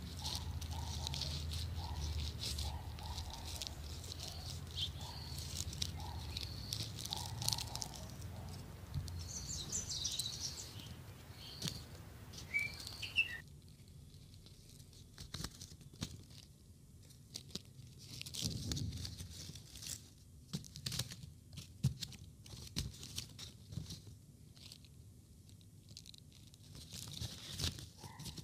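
Outdoor ambience of birds chirping over a low steady hum. About thirteen seconds in it cuts to a much quieter room tone with scattered clicks and rustles.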